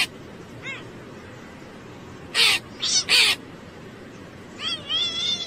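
A crow cawing: harsh calls, three loud ones in quick succession about two and a half to three seconds in. Near the end comes a run of short, quicker calls that rise and fall in pitch.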